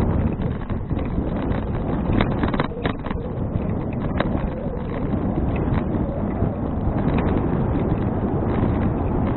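Wind buffeting an action camera's microphone on a moving bicycle: a steady low rush, with scattered light clicks and rattles, most of them in the first few seconds.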